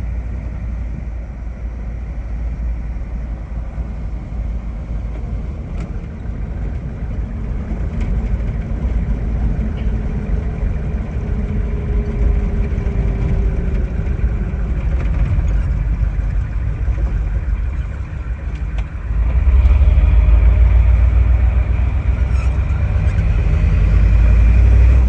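Ford 7.3 IDI turbo diesel V8 running under load as the truck crawls through deep snow, heard from inside the cab. About two-thirds of the way through, the engine gets clearly louder as more throttle is given.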